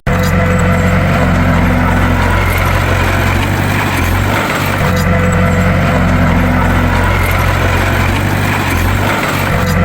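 Heavy bulldozer diesel engine running steadily and loudly, with a low drone whose pattern repeats about every five seconds.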